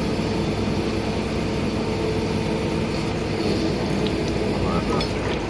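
An engine running steadily at an unchanging speed, a constant droning hum.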